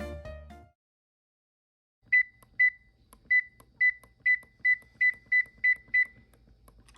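Water-heater remote control panel beeping about ten times, short single-pitch beeps coming a little faster toward the end, as its temperature button is pressed repeatedly to change the hot-water setting. Background piano music fades out just before.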